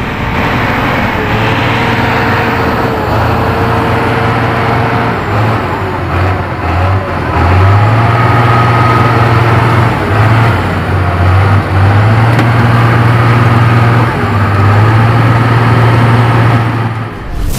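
Heavy truck's diesel engine running hard under load, a loud low drone that dips and picks up again several times as the throttle is eased and reapplied.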